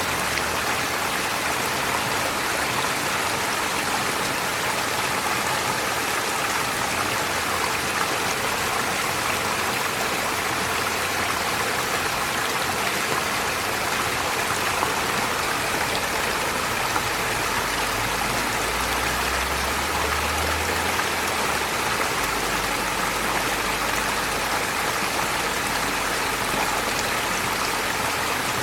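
Forest stream flowing steadily over stones, an even rush and burble of running water.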